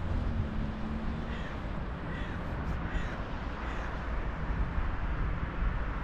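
A bird calling four times in quick succession, each call short and rising then falling in pitch, over steady low background noise.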